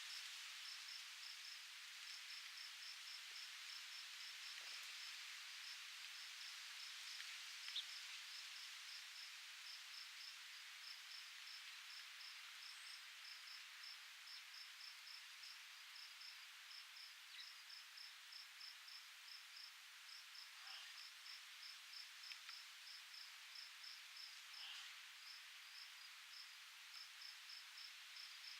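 Faint, steady wind hiss with a cricket chirping in a quick, even run of high chirps throughout, and a few faint brief calls here and there.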